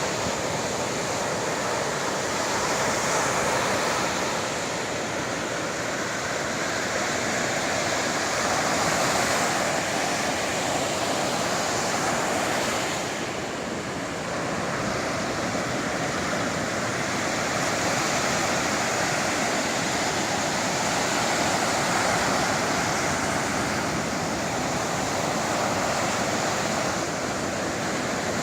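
Sea waves rushing onto the shore in a continuous wash that swells and eases every few seconds, with a brief lull about halfway.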